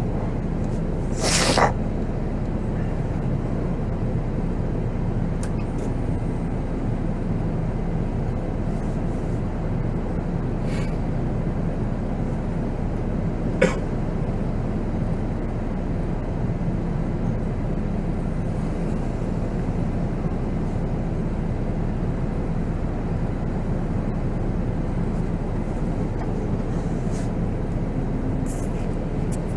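Volvo B7R coach's diesel engine and road noise running steadily, heard from the driver's seat. A short, sharp hiss comes about a second and a half in, and a single click near the middle.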